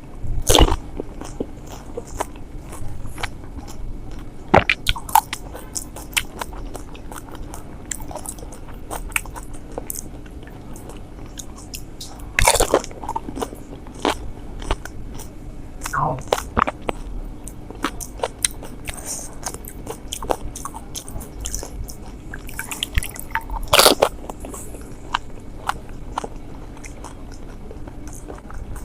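Crisp golgappa (pani puri) shells cracking and being chewed in the mouth: a steady run of small crunchy crackles, with three louder crunches as fresh puris are bitten, near the start, about twelve seconds in, and near the end.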